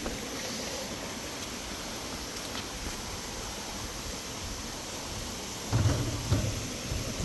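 Steady rushing water from a stream beside the trail. A few low thumps come in near the end.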